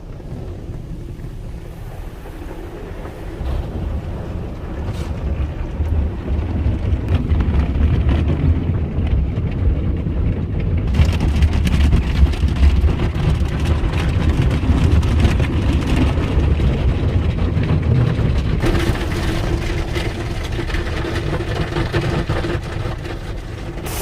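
Automatic car wash heard from inside the car: a heavy low rumble of the wash equipment and water against the body, building over the first few seconds, with a hiss of spray joining about halfway through and a steady hum coming in near the end.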